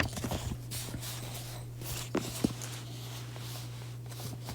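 Scattered small clicks and taps, one sharper click about two and a half seconds in, over a steady low electrical hum.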